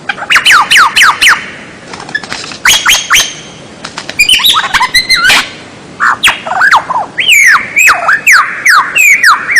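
A songbird singing close up: bursts of quick, sharply falling whistled notes, each dropping from high to low in a fraction of a second, broken by two short pauses, then a denser, more varied run of swooping whistles and chirps in the second half.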